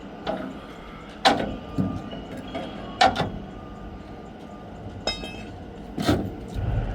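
A series of sharp knocks and bangs, about five or six, the loudest about a second and three seconds in, with a brief rapid rattle about five seconds in, over a steady low rumble of a running vehicle.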